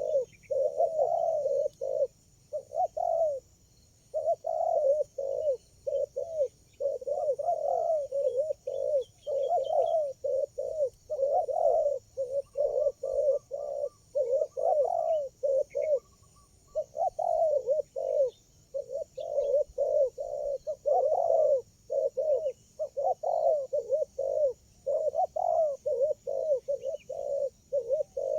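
Spotted doves cooing over and over in quick runs of short notes, broken by brief pauses, with a faint steady high hiss behind.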